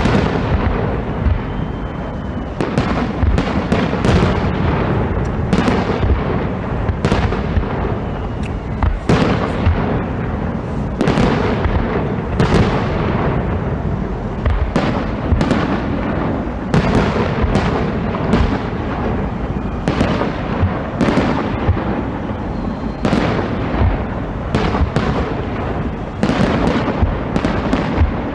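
Fireworks exploding continuously, many sharp bangs overlapping on a steady rumble of further bursts.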